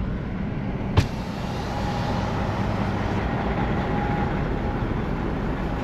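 Car running at low speed, a steady low rumble of engine and road noise, with a single sharp click about a second in.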